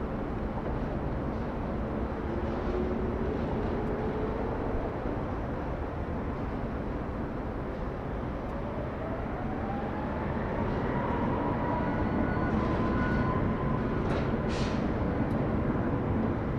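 Jet airliner engine noise at an airport, a steady rumble with a whine that rises in pitch about halfway through as the sound grows louder.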